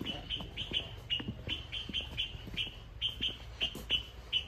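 A small bird chirping over and over, short high chirps about three or four a second.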